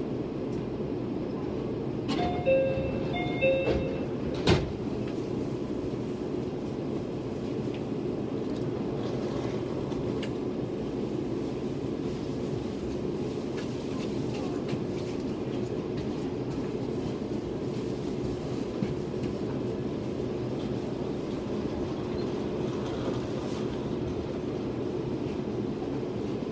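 Meitetsu limited express train standing at a platform: a steady electrical hum from the stationary train. About two seconds in, a short two-note electronic chime sounds twice, followed by a sharp click.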